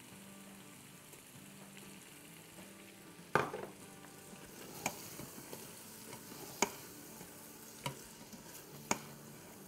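Soya chunks frying with yogurt and spices in an electric pressure cooker's inner pot on sauté: a quiet steady sizzle while they are stirred. A spoon knocks against the pot about five times, the first knock the loudest.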